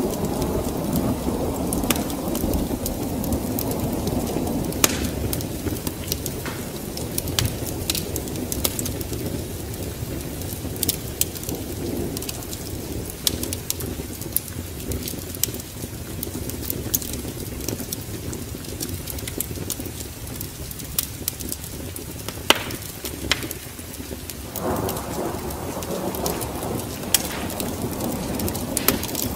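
Steady rain with rolling thunder that eases off and then swells again near the end. Scattered sharp crackles and pops, as from a burning wood fire, run through it.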